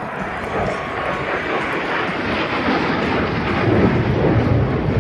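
Jet engine noise of F-16 fighter jets making a pass, a loud, dense rush that grows steadily louder as they approach.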